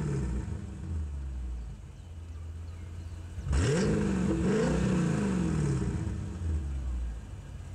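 Mercedes-Benz CLK DTM AMG's supercharged V8 exhaust: the engine is revved sharply about three and a half seconds in, then blipped twice more, its pitch rising and falling with each blip before it settles back down.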